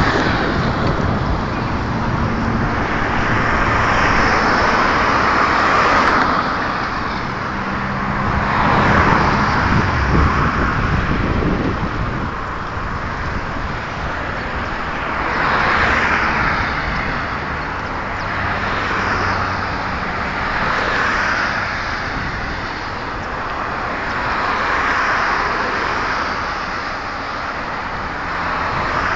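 Road traffic: cars passing one after another, the noise swelling and fading every few seconds over a low engine hum.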